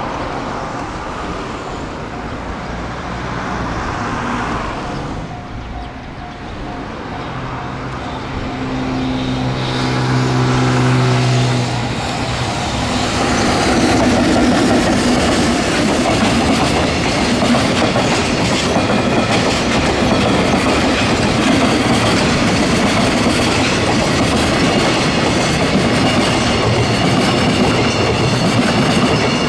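EF210 electric locomotive hauling a container freight train past at speed. A steady hum rises as the locomotive goes by about a third of the way in. It is followed by the loud, continuous rumble and clickety-clack of the container wagons' wheels over the rails.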